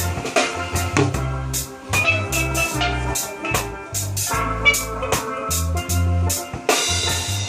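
Steel drums playing a ringing melody over low bass notes, with drum and cymbal strikes keeping a steady beat.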